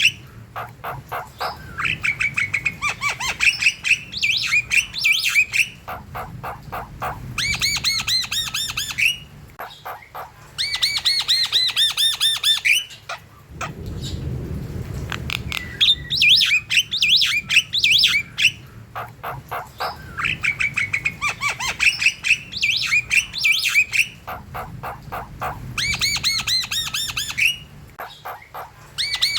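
Javan myna (jalak kebo) singing in full voice: rapid runs of sharp clicking notes and repeated looping whistled phrases, broken by squawks, with a harsh rasping call about halfway through.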